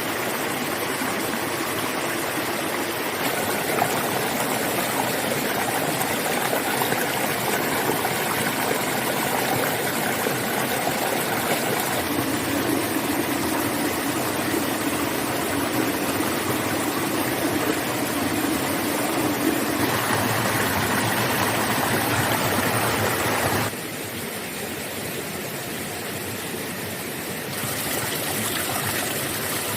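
Steady rushing water, like a stream, whose level and tone change abruptly several times.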